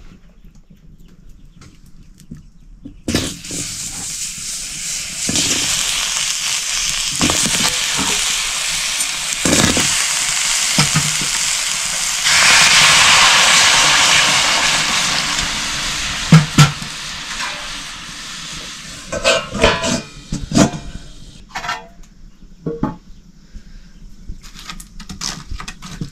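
Food frying in hot oil in a pan: a loud sizzle that starts about three seconds in, swells and then fades away. Several sharp knocks of a utensil against the pan come near the end.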